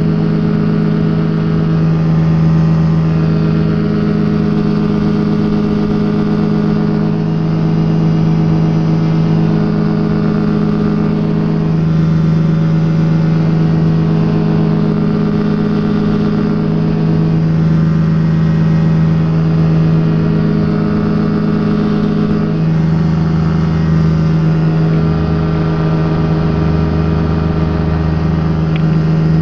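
Quad City Challenger ultralight's Rotax engine running steadily, heard from the open cockpit, its pitch holding almost constant with only slight rises and dips.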